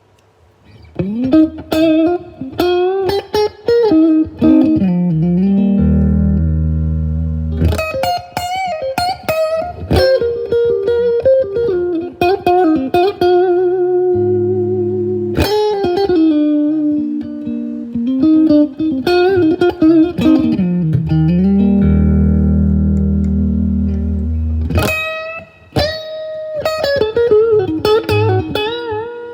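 Electric guitar, a Fender Stratocaster, playing a slow melodic lead with bent and wavering notes, broken up now and then by held low notes.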